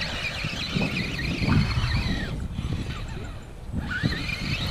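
Electric motor and drivetrain of an RC rock crawler whining, the pitch rising and falling with the throttle as it struggles to climb over a tree root; the whine stops for a moment in the middle and then comes back. Wind rumbles on the microphone throughout.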